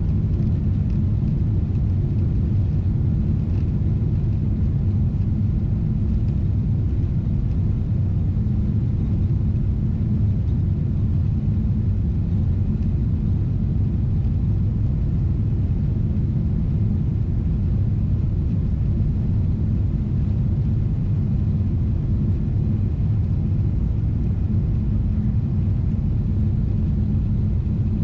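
Steady low rumble of a Boeing 777-300ER's cabin in flight: the GE90 turbofans and airflow heard from a window seat, with a constant low hum and no changes in pitch or level.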